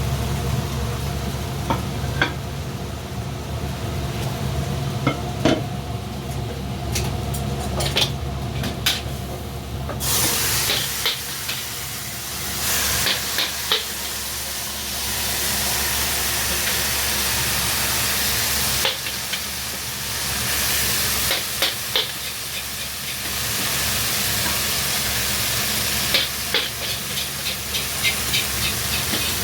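Stir-frying in a restaurant kitchen: a steady low drone with scattered metal clicks of a ladle against the pan, then from about ten seconds in, food hitting hot oil and sizzling loudly in bursts, with the ladle clinking as it is stirred.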